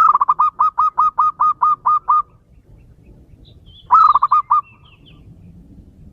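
Male zebra dove (perkutut) singing: a rapid run of about a dozen cooing notes, then a shorter run of about six notes about four seconds in. Faint higher chirps from another small bird sound around the second run.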